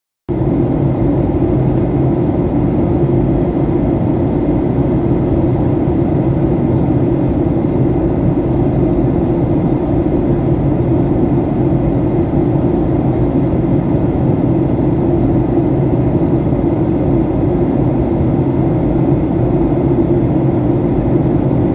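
Steady drone of a Batik Air jet airliner's engines and airflow, heard inside the passenger cabin: a loud, even, low rumble with no changes or impacts.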